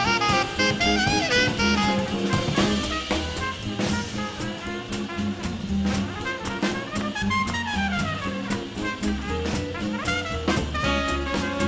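Live swing band playing an instrumental break: saxophone and brass lines with quick runs, over walking upright bass and a drum kit with frequent cymbal hits.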